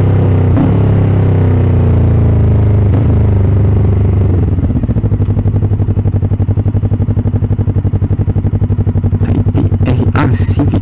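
Motorcycle engine slowing, its pitch falling, then settling into a steady idle with an even pulsing beat from about four seconds in. A few clicks and a clatter come near the end.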